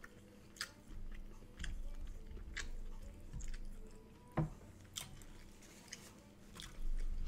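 Close-up chewing of food with scattered wet mouth clicks and smacks, and a single soft knock about four seconds in.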